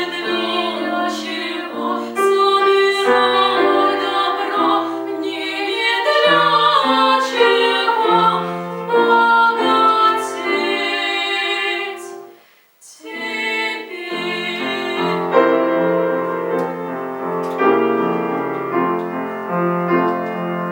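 Classical vocal piece: a female singer with piano accompaniment. The music breaks off briefly about twelve seconds in, then goes on.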